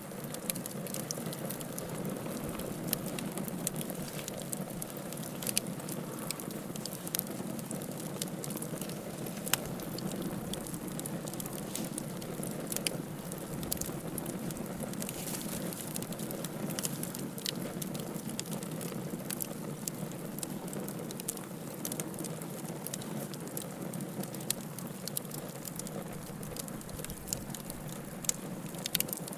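Wood fire burning steadily with a low rushing of flames and frequent sharp crackles and pops from the burning wood.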